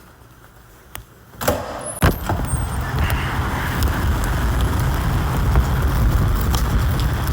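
A few clicks and rustles, then about two seconds in a sudden loud, steady rush of storm wind and rain, with a deep rumble of wind buffeting the muffled microphone.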